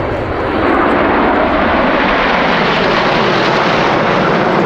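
BAE Hawk T.65A jet trainers passing, their Adour turbofan engines making a loud, steady jet roar that swells about half a second in.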